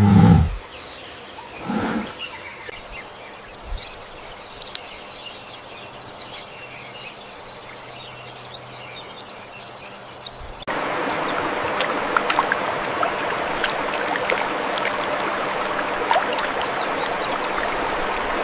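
Short, high chirping calls over faint background noise, with a few louder bursts near the middle. About ten seconds in, the sound switches abruptly to a steady rushing noise with scattered clicks.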